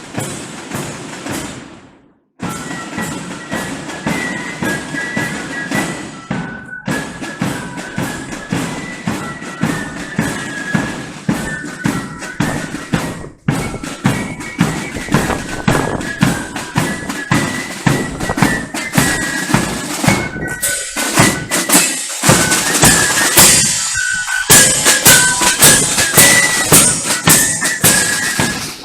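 Military corps of drums playing a march: flutes carry a high melody over a steady beat of side drums and bass drum. The music is broken by a few brief cuts.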